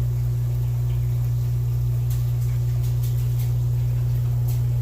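Steady low electrical hum from aquarium equipment, unchanging throughout, with faint scattered high clicks over it.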